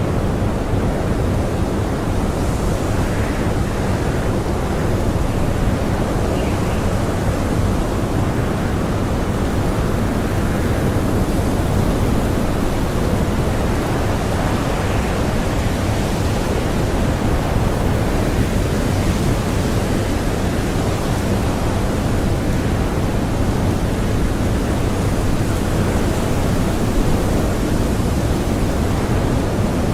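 Strong blizzard wind blowing steadily, a dense rushing noise with gusts that swell and fade.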